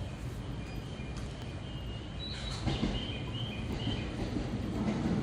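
Station platform ambience: a steady low rumble with wind noise on the microphone. In the middle comes a run of short, high chirps, and near the end the sound of an arriving train begins to build.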